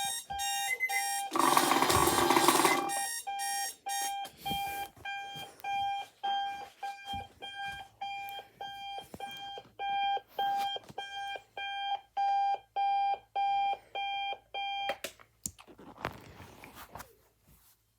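Electronic alarm beeping in a steady rhythm of about two pitched beeps a second, stopping about three seconds before the end. It is preceded by a loud, harsh blare lasting about a second and a half.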